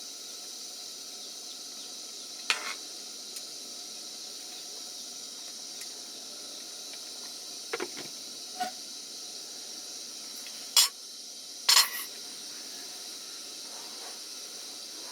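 A steady high hiss, broken by a few short sharp clicks or knocks: single ones early on and about halfway, then the two loudest close together about three-quarters of the way in.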